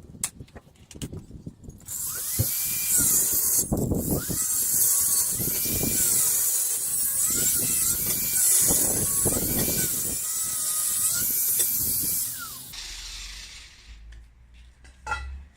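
Power tool cutting through steel box section: a loud, continuous high hiss that starts about two seconds in, with the pitch wavering under load and irregular knocks, then dies away near the end.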